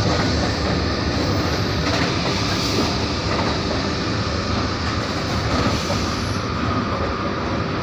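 Steady running noise of an electric locomotive on the move, heard inside its cab: wheels on the rails and the body rumbling.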